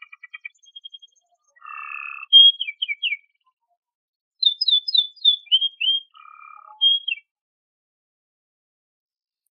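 Domestic canary singing: a quick trill, then phrases of fast rising and falling notes mixed with buzzy low trills. The song breaks off about seven seconds in.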